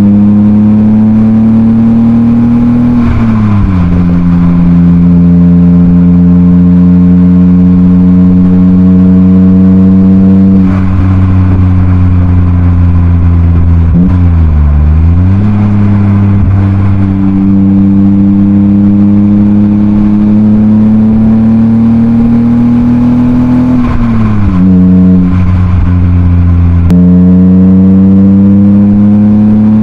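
BMW M52B28 2.8-litre straight-six heard through a Schmiedmann rear silencer, pulling through the gears under acceleration. The revs climb steadily and fall sharply at gear changes about three seconds in and twice near the end, with a brief dip and recovery about halfway.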